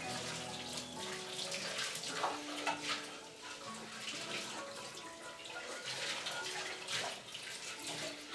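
Water running from a tap and splashing irregularly, with soft background music underneath.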